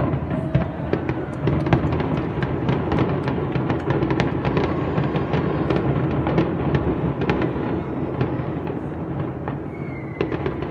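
Fireworks going off in a dense barrage: many rapid sharp crackles and pops over a continuous low rumble.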